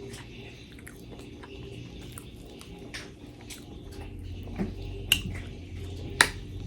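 Close-miked eating: chewing with small wet mouth noises and faint ticks, and two sharp clicks about five and six seconds in.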